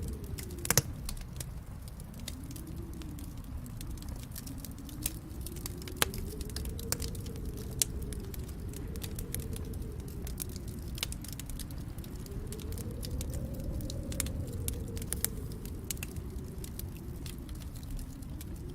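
Wood fire crackling with scattered sharp pops, over a low wind rumble that swells and fades every few seconds like snowstorm gusts.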